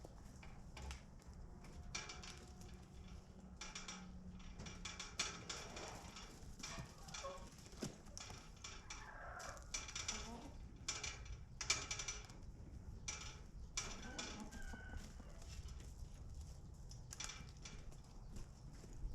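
Chickens clucking faintly, with many light clicks and taps.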